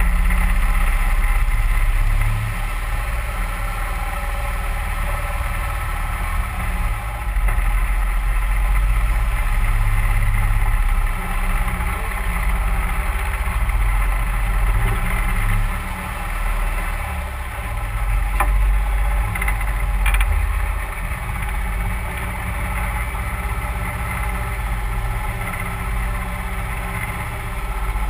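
31-horsepower Mud Buddy HyperDrive surface-drive mud motor pushing a duck boat, running steadily with its loudness rising and falling every few seconds. Two brief sharp knocks come a little past the middle.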